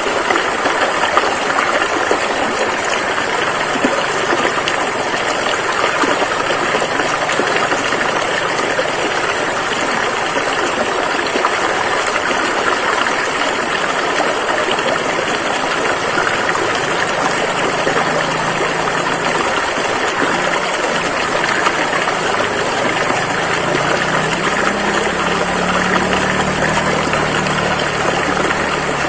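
Rushing river water: a loud, steady, even rush of flowing water. A low hum joins it in the second half, strongest near the end.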